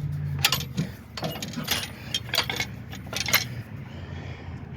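Sharp metallic clicks and clinks, about a dozen over three seconds, as a steel pin is worked loose and pulled from the snowblower mounting bracket on a lawn tractor. A steady low hum stops a little under a second in.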